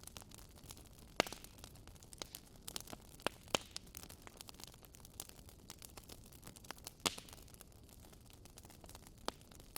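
Wood fire crackling in a fireplace: a soft hiss with a steady scatter of small snaps and a few louder pops, one about a second in, two near 3.5 seconds and one around 7 seconds.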